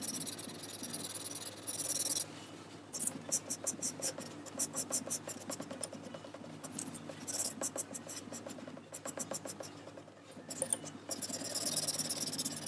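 Rapid, scratchy strokes of a tool on paper, several a second, in runs with short pauses between them.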